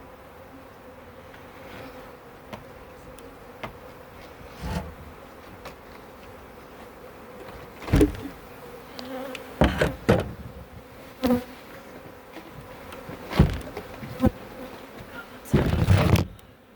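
Honeybees buzzing steadily around an opened hive, with several sharp knocks from hive equipment being handled and a brief louder rustle near the end.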